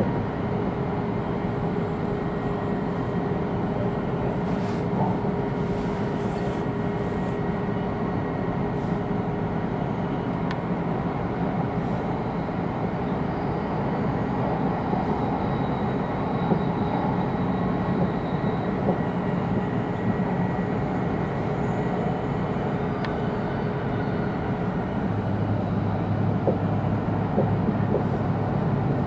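Interior running noise of an E2-series Shinkansen car in motion: a steady rush and rumble with a few faint steady tones. A low hum grows stronger near the end.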